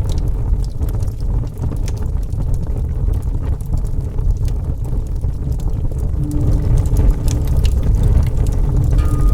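Wood fire burning with a steady low rumble and scattered crackles. A soft held musical tone sounds briefly about six seconds in and returns near the end.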